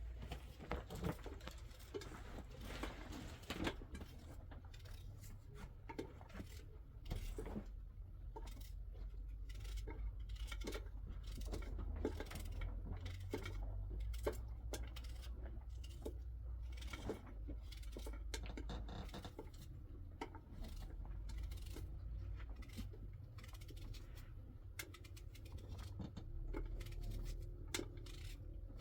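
Many light clicks, taps and clinks of small hard objects being handled, scattered irregularly, over a steady low rumble.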